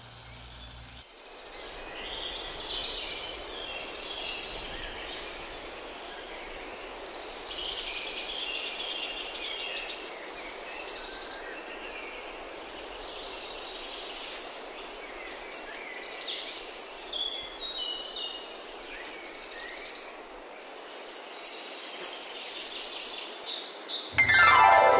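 Songbird singing the same short phrase about every three seconds, a high note followed by a lower trill, over a steady soft hiss. An oil sizzle cuts off about a second in, and near the end a swoosh falls steeply in pitch.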